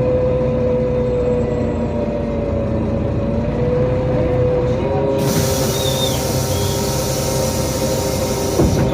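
Inside a NefAZ-5299 city bus: the drivetrain hums with a steady whine that shifts slightly in pitch. About five seconds in, a loud compressed-air hiss starts suddenly and runs for about four seconds. It ends with a thump near the end.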